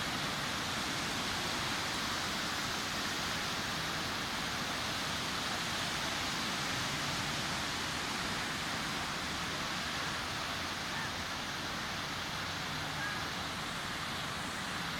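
Sea waves breaking and washing on a beach: a steady, continuous surf.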